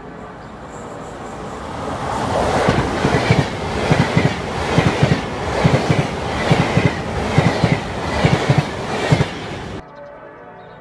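Electric locomotive-hauled passenger train passing through a station at speed: a rising rumble as it approaches, then a steady clickety-clack of wheels over rail joints in regular pairs as the coaches go by. It cuts off suddenly near the end.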